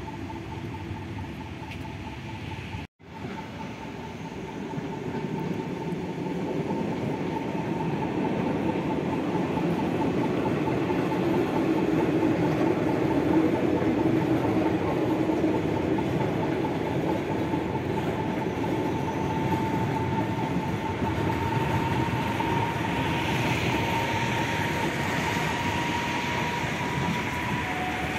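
A train running over a railway viaduct: a rumble that builds over the first ten seconds or so and then holds, with a steady high whine that rises a little in pitch towards the end. The sound cuts out for an instant about three seconds in.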